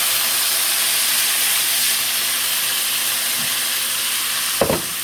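Freshly added sliced vegetables sizzling in hot oil in a pot, a loud steady hiss.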